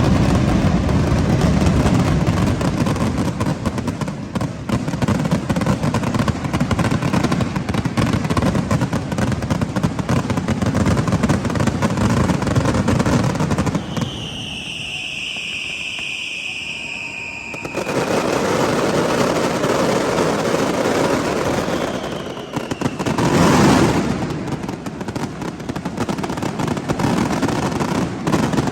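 Fireworks barrage: rapid bangs and crackling, broken about halfway through by a single whistling firework, a high whistle lasting about three seconds, before the bangs resume. A second, shorter whistle leads into a loud burst near the end.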